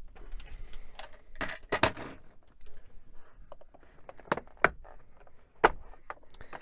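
Small metal hardware, screws and tools, being handled and rummaged through: scattered clinks and clicks with pauses, a few sharper ones near the middle and toward the end.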